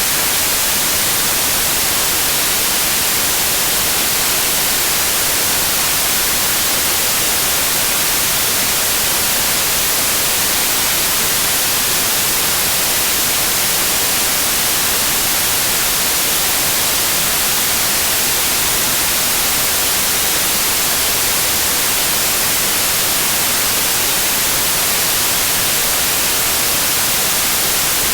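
Steady white noise: an even, unbroken hiss, strongest in the high end, with no change in level.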